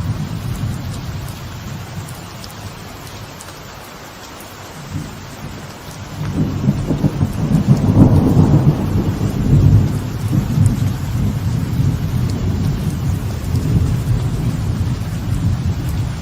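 Light rain falling on a veranda, with thunder. A low rumble fades over the first few seconds, then a louder peal builds about six seconds in, is loudest around eight seconds and keeps rolling for several seconds more.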